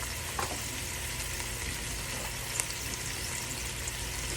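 Steady sizzling hiss of food cooking in a pot on the stove, with a couple of light clicks or taps.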